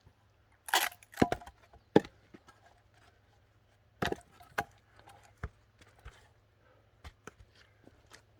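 An axe chopping a thick firewood log: several sharp, loud blows and wood cracks in the first two seconds, the sharpest about two seconds in. These are followed by a few more knocks of wood and lighter clunks near the end.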